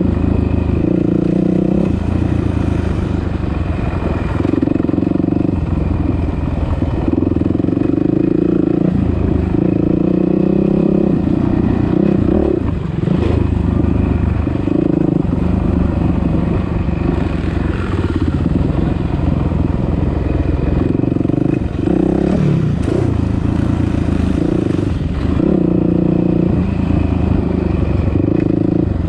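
Dirt bike engine running under load, its revs rising and falling every second or two as the throttle is opened and closed.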